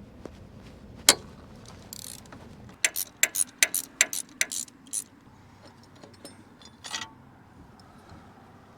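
Sharp metal clicks from hand tools and loose bolts while an engine's cylinder head bolts are taken out: one click about a second in, then a quick run of about nine clicks over some two seconds, and one more later on.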